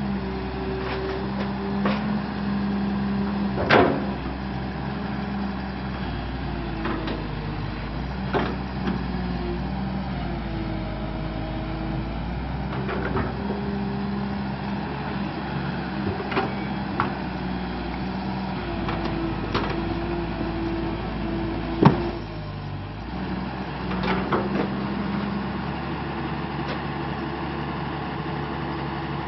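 Kobelco excavator's diesel engine running steadily, with a whine that steps up and down in pitch and several sharp metallic clanks, the loudest about two-thirds of the way through.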